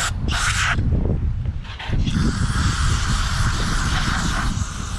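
Aerosol can of throttle body cleaner spraying onto a dirty throttle body: a short burst ending just under a second in, then a long, steady spray starting about two seconds in, over a low rumble.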